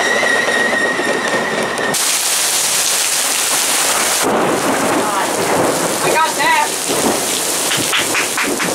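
For about the first two seconds, a Metra bilevel commuter train rolls past with a steady high-pitched wheel squeal. The sound then switches abruptly to a heavy downpour: dense, steady hissing rain pouring onto the tracks and the platform.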